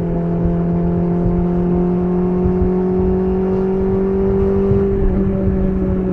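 BMW S1000RR's inline-four engine through an SC Project CR-T titanium exhaust, running at a steady cruise. The pitch creeps up slightly, then drops a little about five seconds in.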